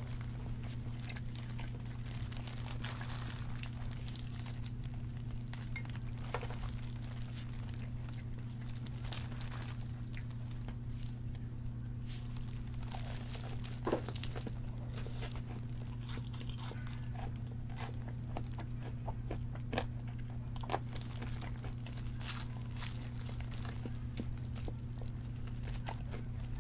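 Close-up crunching and chewing of crispy fried chicken, with irregular crisp bites, the sharpest about halfway through, over a steady low hum.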